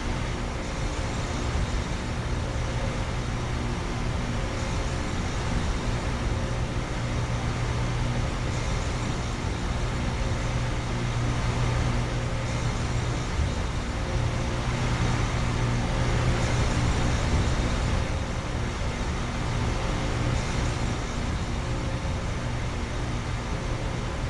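Outdoor heat pump condenser units running: a steady low compressor hum over the even rush of the condenser fans.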